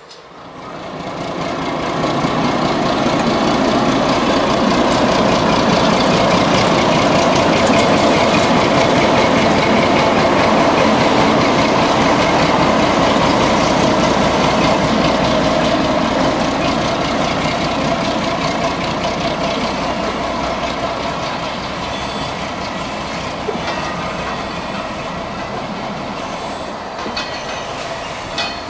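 Train running on rails: a steady rumble and rattle of wheels over track. It comes up sharply within the first two seconds and eases a little in the last third.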